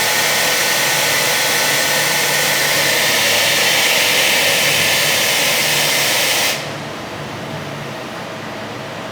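Machining-cell equipment running with a loud, steady hiss over a lower machine hum. The hiss cuts off suddenly about six and a half seconds in, and the hum goes on at a lower level.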